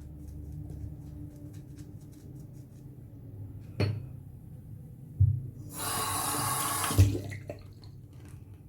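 A sink tap runs for about a second, with a few knocks and clicks around it, as water is used to soften the moustache for shaving.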